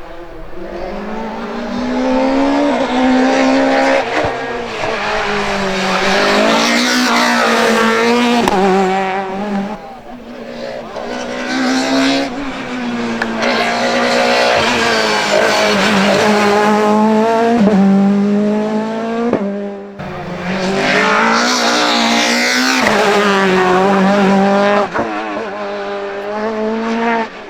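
Citroën Xsara Kit Car rally car's engine running hard at high revs, its pitch climbing and falling again and again with the gear changes and lifts off the throttle. It fades briefly about ten and twenty seconds in, then comes back up.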